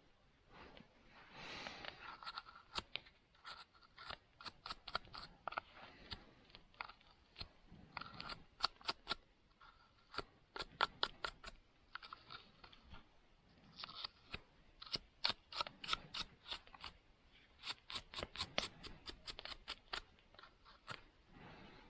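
Metal work on a saw blade: many sharp clicks and taps in irregular clusters, some followed by a faint ring from the blade, and a short scraping stroke about a second and a half in.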